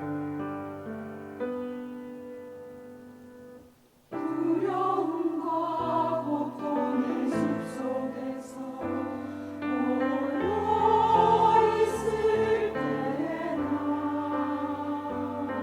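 Church choir singing a sacred anthem with piano accompaniment. The piano introduction fades away, and about four seconds in the choir enters together with the piano and sings on.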